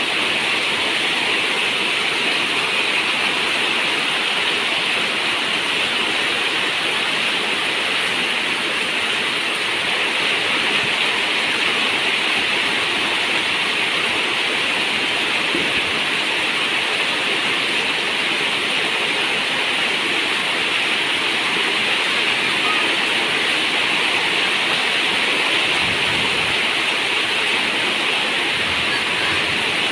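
Steady heavy rain on a zinc roof, an even unbroken hiss with no separate drops standing out.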